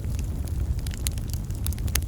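Wood campfire crackling: scattered sharp pops and snaps over a steady low rumble of the burning fire.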